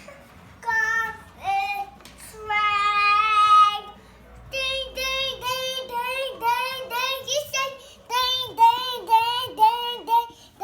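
Young child singing in a high voice: a few short notes, one long held note, then a quick run of repeated syllables, a little over two a second, each swooping up and down in pitch.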